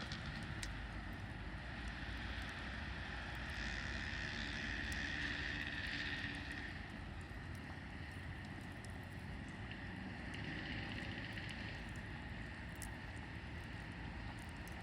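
Wood campfire burning: a steady rushing hiss that swells twice, with scattered sharp crackles and pops from the burning wood.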